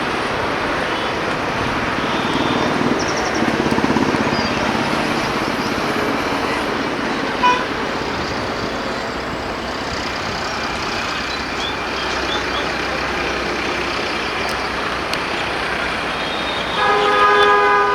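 Express train of LHB passenger coaches rushing past at speed: a steady rush of wheel, rail and wind noise, with a sharp knock about seven and a half seconds in. Near the end a multi-tone horn sounds for about a second.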